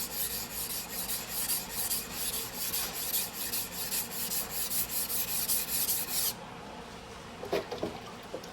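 Steel blade of a single-bevel sujihiki knife being stroked back and forth on a whetstone in quick, even scraping strokes. The grinding stops abruptly about six seconds in, and a couple of light knocks follow.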